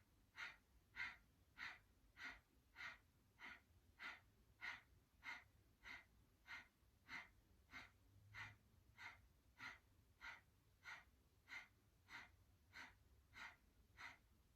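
Kapalbhati breathing: a steady train of short, forceful exhalations through the nose, evenly spaced at about one and a half a second, fairly faint.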